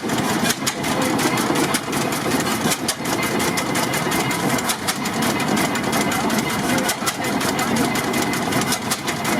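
1927 Eagle tractor's engine running with a busy, rapid mechanical clatter of many quick clicks.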